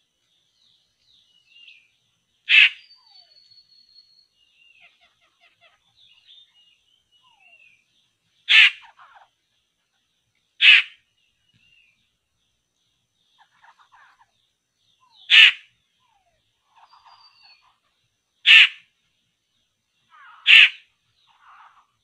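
Harsh bird calls repeated six times at irregular intervals of two to five seconds, each short and loud, with faint chirps and thin whistles from other birds between them.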